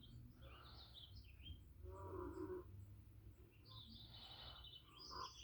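Faint bird chirps and a short trill, with a brief lower-pitched animal call about two seconds in.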